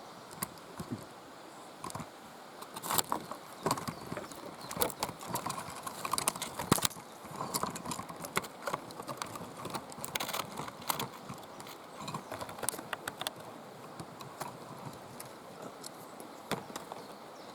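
Irregular clicks and knocks of footsteps and handling as someone moves in to check a nest, over a faint steady outdoor background.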